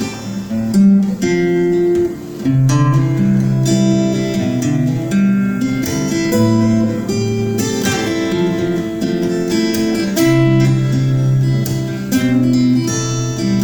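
Instrumental song introduction led by acoustic guitar, with held bass notes under chords that change every second or two.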